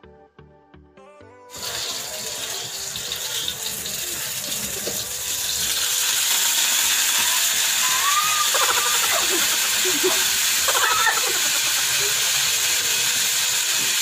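Onion and garlic sizzling in hot oil in a pot on a gas stove: a steady hiss that starts suddenly about a second and a half in and gets louder a few seconds later.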